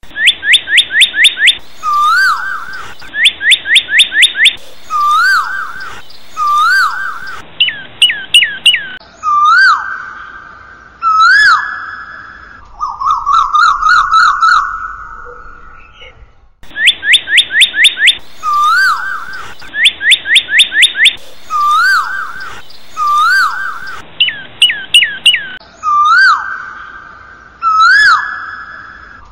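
Songbird calls: groups of about five quick, falling whistles alternate with single rising-then-falling whistled notes and a fast trill. The same sequence of calls starts over about halfway through, as a looped recording.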